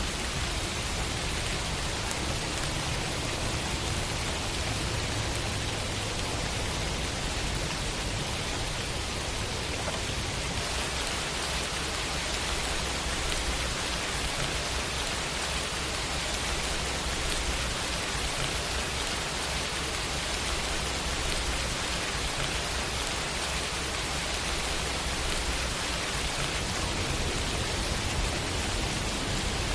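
Steady rain falling on hard surfaces: an even, unbroken hiss with a low rumble underneath that shifts about ten seconds in.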